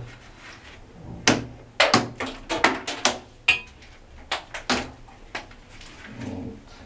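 Plastic tile-levelling-system clips being snapped off the tiles: a quick series of sharp cracks and clicks, about a dozen, mostly in the first five seconds.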